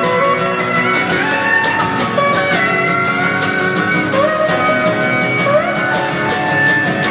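Steel guitar solo over a live country band with drums, its notes sliding up and down in pitch between held tones.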